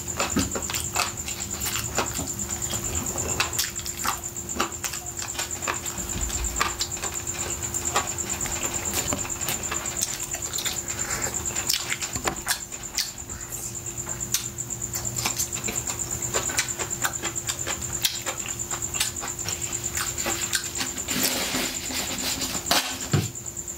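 Close-up mouth sounds of chewing roast chicken wrapped in lettuce: many irregular wet smacks, clicks and crackles of the food being chewed, with a steady high whine underneath.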